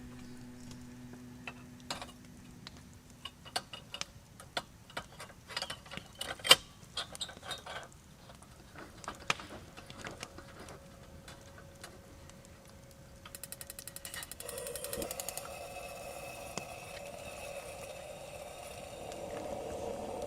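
Camp gear being handled: scattered clicks and knocks, then about thirteen seconds in a fast, even run of ratchet-like ticks lasting about two seconds, followed by a steady hiss with a low buzz.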